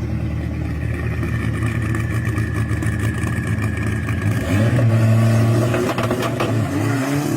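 Car engine running steadily, louder about five seconds in, then rising in pitch as it accelerates near the end.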